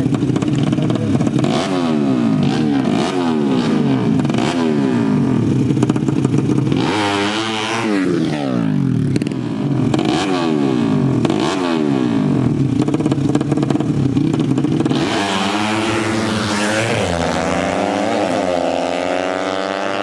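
Drag-racing motorcycle engines revved hard in repeated quick blips, pitch jumping up and falling back about once a second, with more than one engine overlapping. In the last few seconds an engine's pitch climbs in longer steps.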